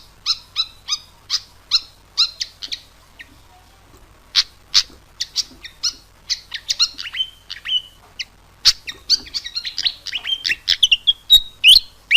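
Malaysian pied fantail calling: a string of sharp, high chip notes about two a second, a short pause, then a quickening run of twittering notes with brief rising and falling whistles near the end.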